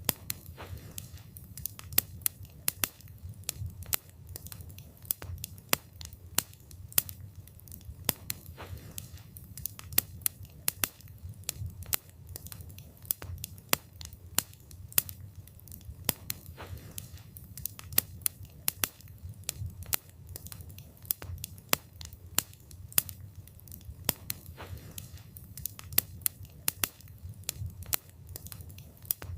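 Wood fire burning, with irregular sharp crackles and pops from the burning wood over a steady low rumble of the flames.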